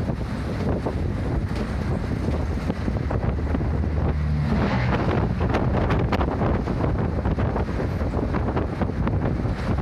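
Route bus running along the road, heard from inside: a steady engine hum with rattles and knocks and rushing wind noise. The engine note thickens briefly about halfway through.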